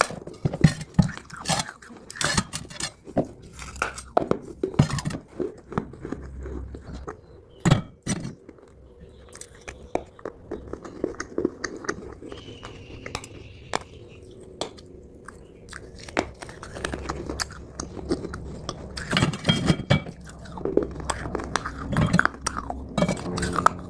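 Close-up crunching and chewing of chunks of Multani mitti (fuller's earth clay): many short, crisp crackles as the dry clay is bitten and ground between the teeth. The crunches are dense at the start, thin out in the middle, and pick up again near the end.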